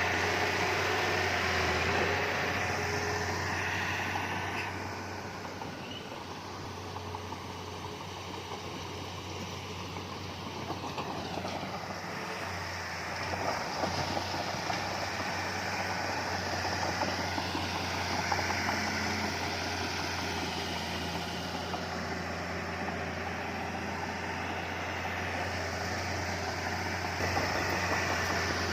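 Diesel engine of heavy earthmoving machinery running with a steady low hum. It eases off about five seconds in and picks up again around thirteen seconds.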